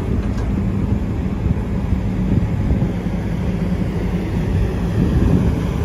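Diesel engine of a combine harvester running steadily, a low even drone.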